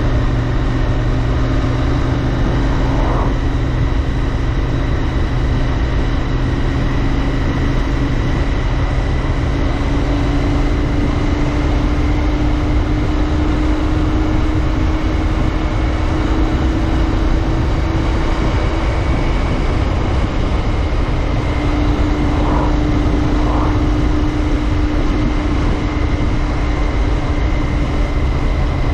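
Royal Enfield Interceptor 650's 648 cc parallel-twin engine and exhaust running at a steady cruise, the engine note climbing slowly and easing back a little later, with wind rumble on the microphone underneath.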